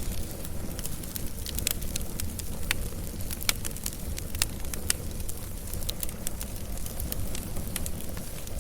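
Wood fire burning: a low steady rumble with sharp crackles and pops scattered through it, most frequent in the first half.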